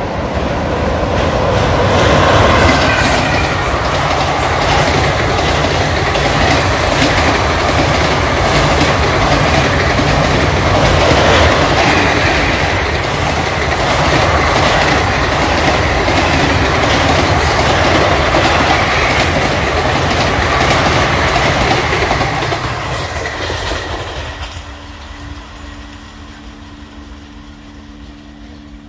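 Indian Railways passenger coaches running over a steel truss railway bridge: a loud, sustained rumble with a fast, steady clatter of wheels over rail joints. About 24 seconds in it cuts off to a much quieter steady hum.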